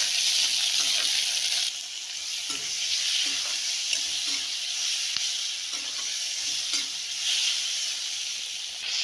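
Chopped tomato, onion, garlic and ginger sizzling as they fry in a steel kadhai, stirred with a spoon that scrapes the pan now and then. The sizzle drops slightly about two seconds in.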